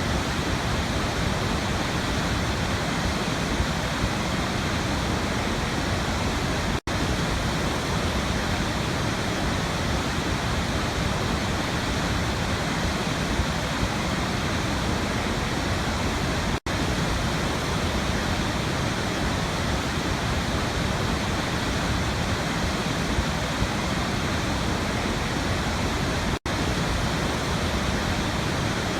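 Waterfall rushing as a steady, even noise, cut by three brief dropouts about ten seconds apart.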